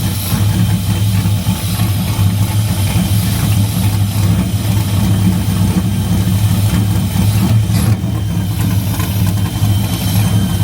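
Freshly reassembled car engine idling steadily while its ignition timing is being adjusted; it is not yet running smooth.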